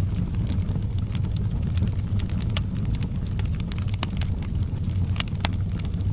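Wood fire crackling and popping in a fireplace, with irregular sharp snaps, a few louder ones, over a steady low rumble.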